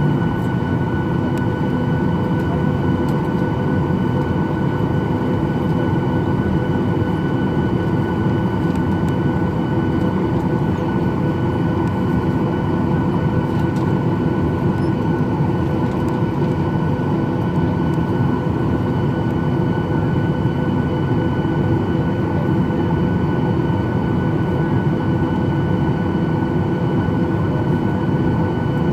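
Boeing 737-800's CFM56 jet engines running at a steady setting, heard inside the cabin: a constant loud rush with steady whining tones that stay level throughout.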